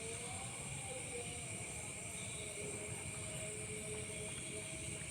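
A night chorus of insects: a steady high-pitched drone in two layers that does not change, with faint wavering tones underneath.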